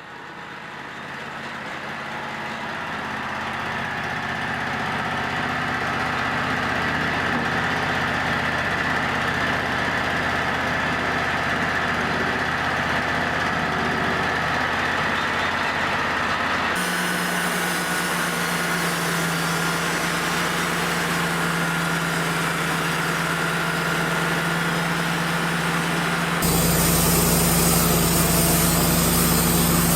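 Wood-Mizer LT35 portable band sawmill running steadily, its engine and band blade making a constant mechanical drone. The sound fades in over the first few seconds and changes tone abruptly twice, about halfway through and near the end.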